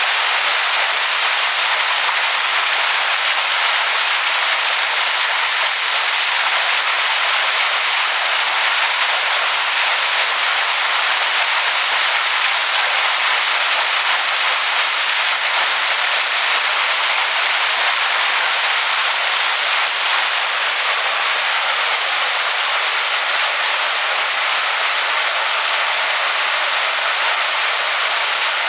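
Waterfall rushing over rocks: a steady, dense hiss of falling water, heavy in the high end and with little low rumble.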